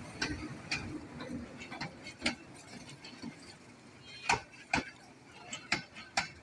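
Irregular sharp clicks and knocks of a train carriage rattling in motion, unevenly spaced, with the loudest knock a little after halfway.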